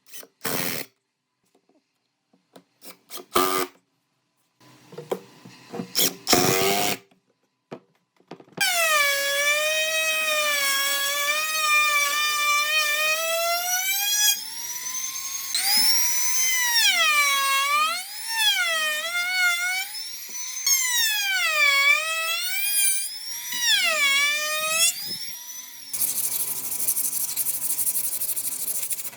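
A power tool's motor whining, its pitch swinging up and down again and again as the load or speed changes, after a few brief separate bursts of tool noise. Near the end it gives way to a steady rasping noise.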